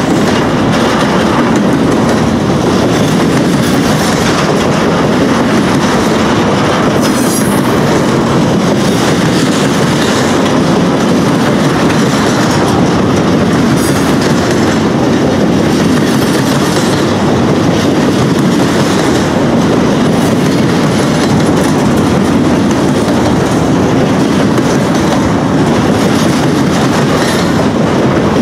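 Intermodal freight train's cars of containers and trailers rolling past close by: a loud, steady rumble and rattle of steel wheels on rail.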